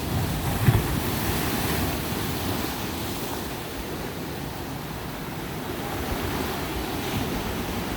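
Ocean surf washing onto a beach as a steady rush, fuller in the first few seconds and then easing, with a brief low thump under a second in.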